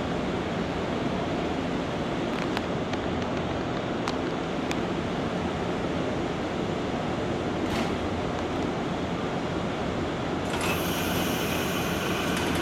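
Steady rumbling noise of an electric railway line at a station platform, with a few faint clicks. About ten seconds in, a hissing, high-pitched rail noise with a few steady tones sets in as a train comes near.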